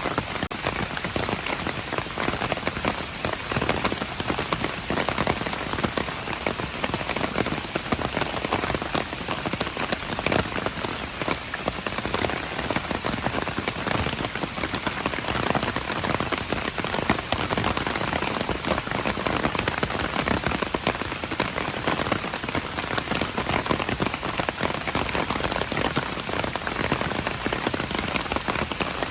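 Steady rain, a dense patter of individual drops over a constant hiss.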